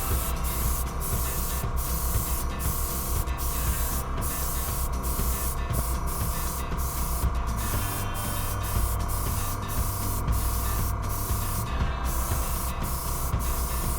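Copic airbrush spraying marker ink with compressed air: a steady hiss that briefly breaks off about every half second, over the low steady hum of its air compressor.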